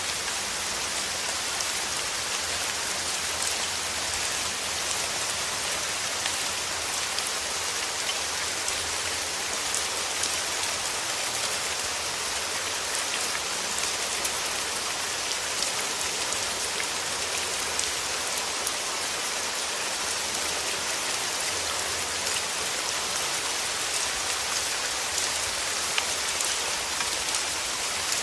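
Steady rain falling on rose petals: an even hiss with many small, scattered drop ticks.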